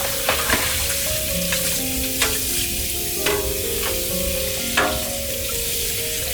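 Food sizzling steadily in a pan, with sharp clicks of a utensil against it scattered through, the strongest near the end. Soft background music plays under it.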